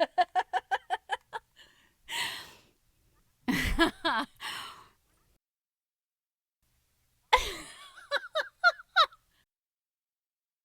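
Female laughter in separate short takes with silent gaps: a quick high-pitched run of about ten "ha"s, a breathy in-breath, another short laugh, then after a pause a second giggling laugh of rapid pulses.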